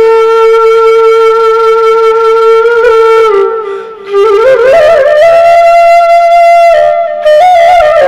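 Background music: a solo flute-like wind instrument playing slow, long held notes, one note of about three seconds, a brief dip, then a higher held note.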